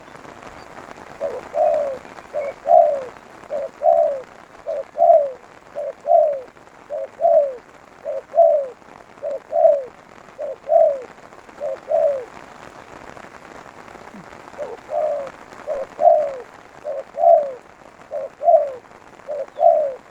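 Spotted dove (tekukur) cooing: a regular series of coos, each a short note followed by a longer falling note, about one a second, with a pause of about two seconds near the middle.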